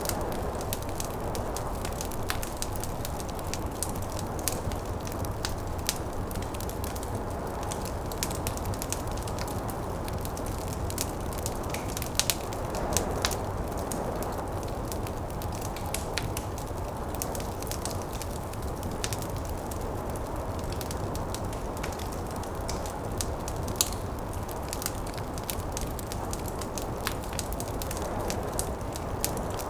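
Wood fire crackling with frequent small sharp pops and a few louder snaps, over a steady low rush of snowstorm wind.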